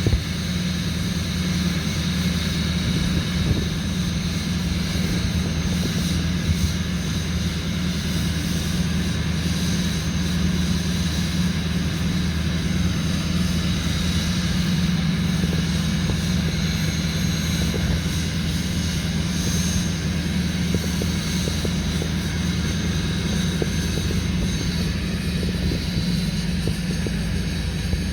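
2005 Duramax LLY 6.6-litre V8 turbodiesel running at its raised cold-start high idle, a steady unchanging drone with a faint high whine over it.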